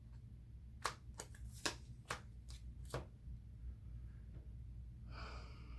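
Trading cards being handled and set down on a table: a handful of sharp clicks and taps in the first three seconds, then a quieter stretch.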